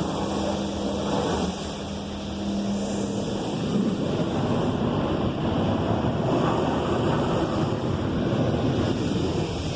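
High-pressure rinse jets of a PDQ LaserWash 360 Plus touchless car wash spraying water onto a car: a steady rushing hiss that dips briefly and swells again. A low hum runs under it for the first few seconds.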